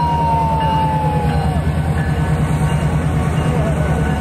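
Train of boxcars rolling slowly past: a steady low rumble with the clatter of wheels on the rails. A long high-pitched squeal drifts slightly down in pitch and stops about a second and a half in.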